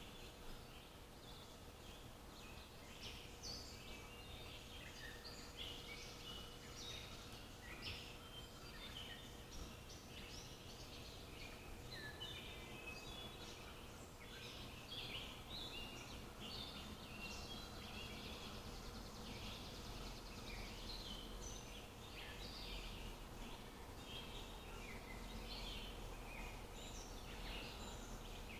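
Several small birds chirping and singing, with short calls and trills overlapping throughout, faint against a steady background hiss. A faint steady hum lies beneath, and a low rumble comes in about two-thirds of the way through.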